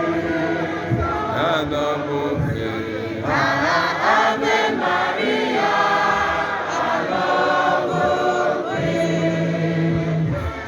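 A choir singing a hymn, with long held notes.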